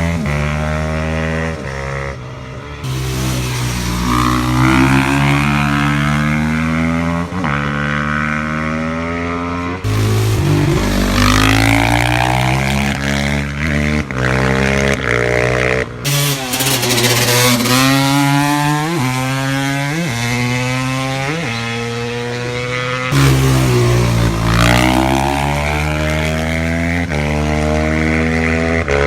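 Racing motorcycle engines at full throttle, the pitch climbing through each gear and dropping back at every upshift, with several abrupt changes from one engine sound to another.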